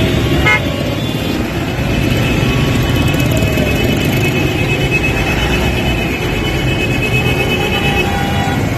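Road traffic with engines running, and vehicle horns honking over it, one held for several seconds.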